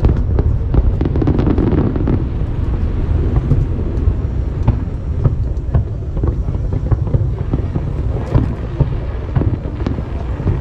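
Aerial fireworks going off in a rapid run of sharp bangs and crackles over a steady low rumble.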